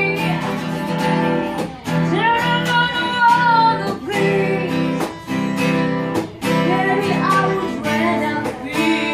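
Singing voice with a strummed acoustic guitar accompaniment.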